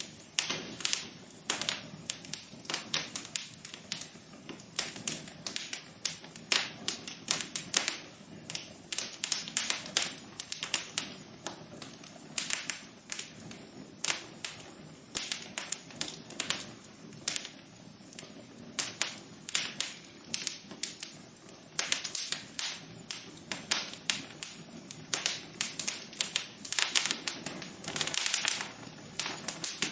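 Wood fire crackling in a fireplace: a dense, irregular run of sharp pops and snaps over a low steady hiss.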